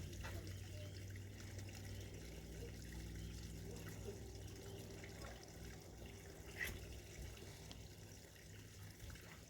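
Running water, a steady low wash, with a sharp click about seven seconds in.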